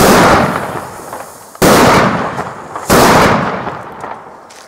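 Three very loud firework bangs in quick succession, the second about a second and a half after the first and the third just over a second later, each echoing away over about a second.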